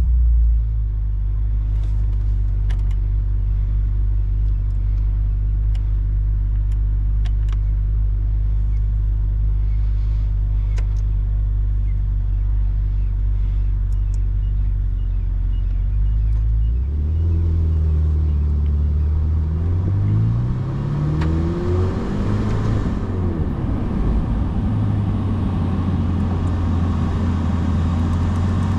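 Ferrari F8 Spider's twin-turbo V8 running at a steady, even idle. About two-thirds of the way through it pulls away, its note rising and dipping several times as the car gathers speed, then settles back to a steady low-speed drone.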